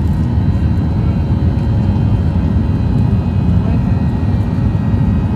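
Jet airliner's engine and cabin noise: a steady deep rumble with several thin, constant engine tones above it.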